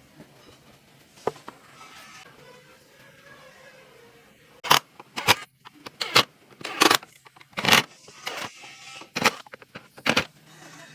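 Quiet workshop background, then about halfway through an irregular series of about eight short, sharp knocks or rasping strokes of a hand tool working wood.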